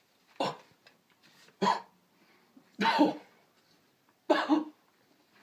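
Four short, harsh vocal bursts from a person, roughly a second apart, like coughs or strained grunts.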